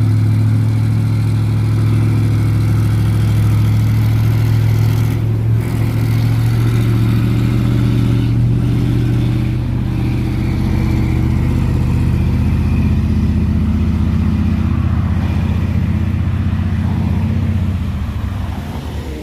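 Heavy truck's diesel engine pulling hard up a steep climb: a loud, steady low drone that shifts in pitch a few times and fades near the end.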